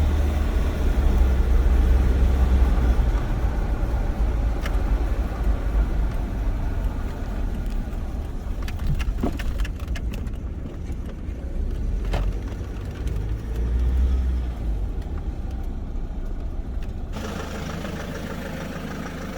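Car driving, its engine running low and steady with road noise, a few sharp knocks in the middle. Near the end the engine's low note weakens and a hiss takes over.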